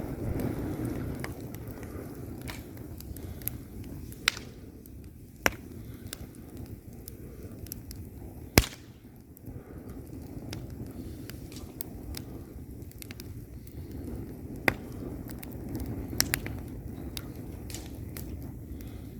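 Wood fire burning in a fireplace: a low steady rumble of flames with scattered crackles and sharp pops of burning logs, the loudest pop a little before halfway.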